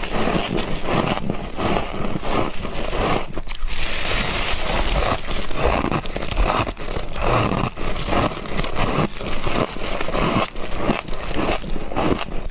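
Humidifier frost (fluffy freezer frost) being bitten and chewed, a steady run of crisp crunching and crackling strokes.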